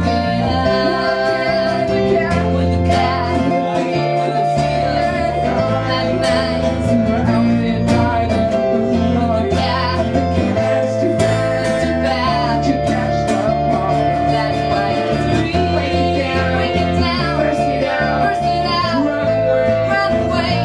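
Live rock-pop band music played loud and steady, led by guitar over a bass line, with sharp regular strokes and a female voice singing at times.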